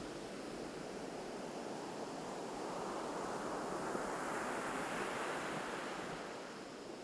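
Ocean waves breaking on a beach: the wash swells to a peak midway through and then subsides near the end.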